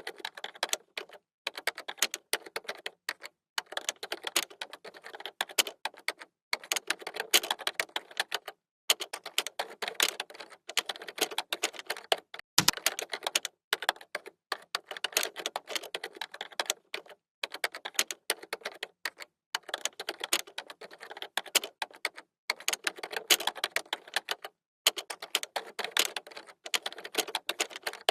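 Typing on a computer keyboard: quick runs of key clicks in spurts of a second or two, broken by short pauses, with one heavier key thump about halfway through.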